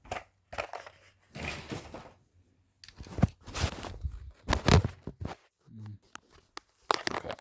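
Packaging and printer parts being handled: irregular crinkling, rustling and knocking, with the loudest knocks about three and five seconds in.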